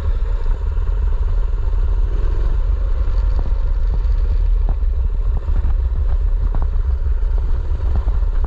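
Mini bike engine running steadily while riding, with short rattles and knocks from the bike over rough ground.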